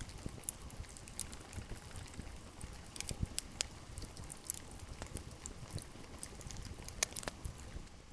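Rain pattering, with irregular close drips ticking over a steady hiss of rainfall.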